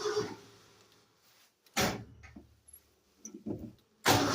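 1972 Ford F250's engine being cranked by the starter without catching; the cranking stops just after the start. Two short loud bursts follow, one about two seconds in and another near the end.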